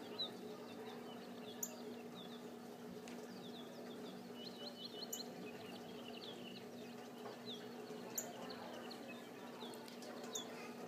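Faint birdsong: many short, high chirps, with a quick run of repeated notes about four to five seconds in. Under it runs a faint steady low hum, and a few sharp clicks come through.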